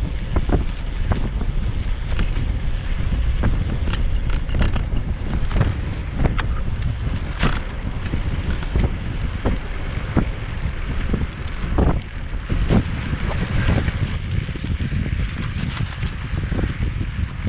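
Wind buffeting the microphone of a bicycle-mounted camera while riding, with scattered knocks and rattles from the bike over the trail. A few brief high whistling tones come in the first half.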